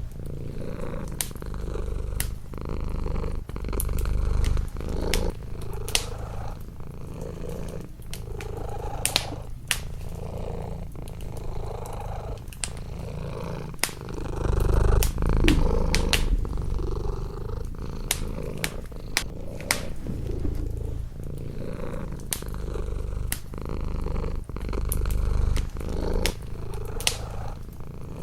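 Domestic cat purring close up, a low rumble swelling and easing with each breath, over a wood fire crackling with frequent sharp pops.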